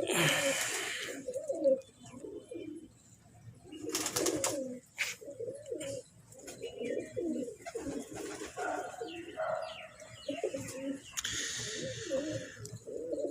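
Several domestic pigeons cooing over and over in low, warbling calls, with a few short noisy bursts in between.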